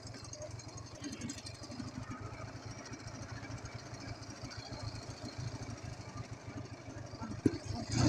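Ural motorcycle's flat-twin engine running under way, with a fast, even chugging pulse. One sharp knock comes near the end.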